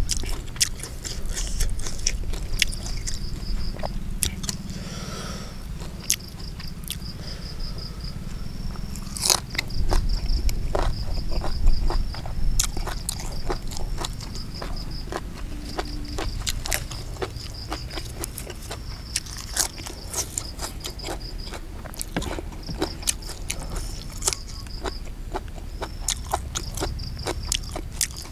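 Close-up, wet chewing and biting, with frequent mouth clicks and crunches, as a man eats raw beef with fresh vegetables and chilies. A high, rapid insect trill keeps recurring in short bouts in the background.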